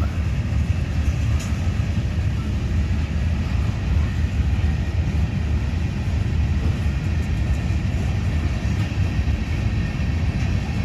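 Freight cars of a passing train rolling by on the rails: a steady, low rumble of wheels on track.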